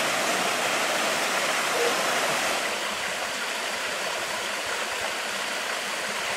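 Steady rush of water falling in a waterfall, a little louder for the first couple of seconds.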